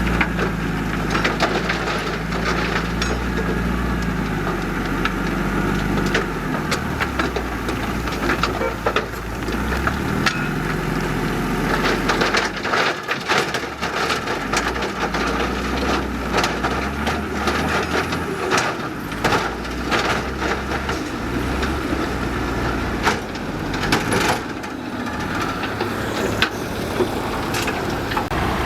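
Heavy diesel earthmoving machinery running, its low engine note shifting a few times and easing off for a moment around the middle, with frequent irregular sharp cracks and clatters of soil, stones and metal being worked.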